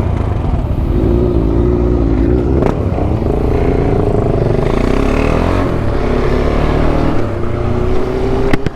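KTM 690 Duke R's single-cylinder engine running while riding, its note wavering up and down, then rising slowly in the last couple of seconds, over wind rush.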